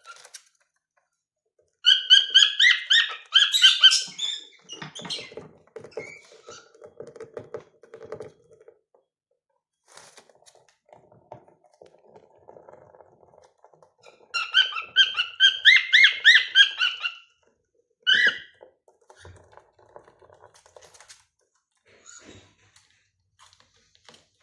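Cockatiels whistling in two bursts of quick warbling trills, one about two seconds in and another around the middle, with a single short call soon after. Quieter chatter and small clicks come in between.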